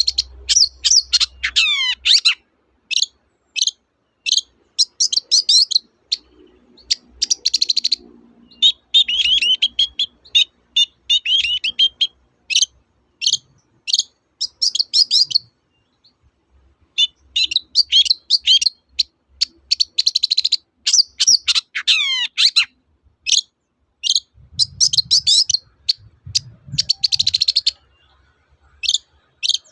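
Long-tailed shrike (cendet) singing in rapid runs of short chirping notes, with two long falling whistled glides, about a second in and about 21 seconds in, and a brief pause near the middle.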